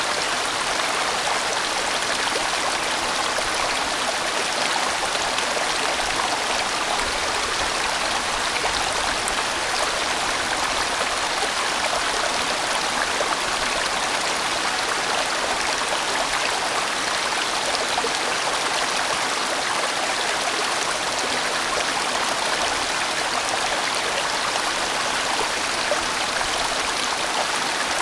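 A large mountain stream rushing and splashing over rocks, a steady full sound of flowing water.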